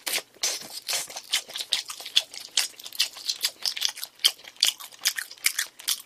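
Close-miked chewing of crispy fried chicken, with a run of irregular crunches, several a second.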